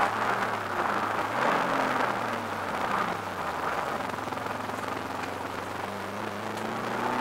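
Subaru Impreza WRX's turbocharged flat-four engine heard from inside the cabin at racing speed, with road and wind noise. The revs drop through a corner about two seconds in, then climb again near the end as the car accelerates out.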